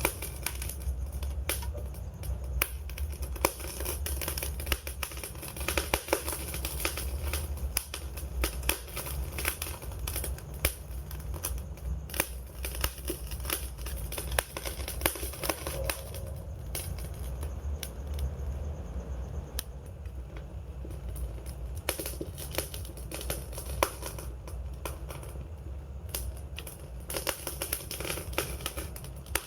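Campfire burning: the wood crackles and pops in irregular sharp snaps over a low, steady rumble.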